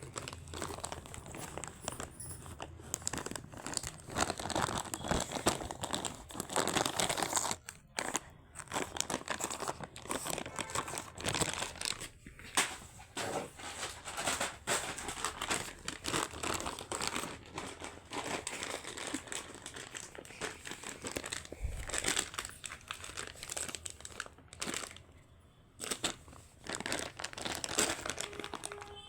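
Something crinkly being crumpled and torn in quick, irregular bursts, with a couple of short pauses, as a Shih Tzu puppy plays with it.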